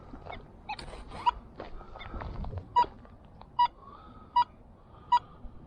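Metal detector beeping: short, sharp electronic tones repeating evenly about once every three quarters of a second, over a faint wavering tone, with a few soft clicks before the beeps start.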